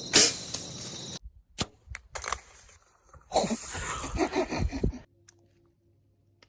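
A single loud gunshot a fraction of a second in, over a steady high chorus of crickets that cuts off about a second in. Scattered knocks and a couple of seconds of voice-like sound follow, then near silence.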